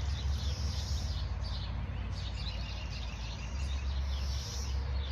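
Songbirds chirping in short repeated calls over a steady low rumble.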